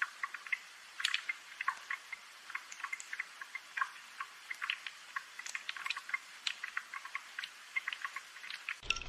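Gentle rain: water drops landing irregularly in a light, sparse patter of small clicks and drips.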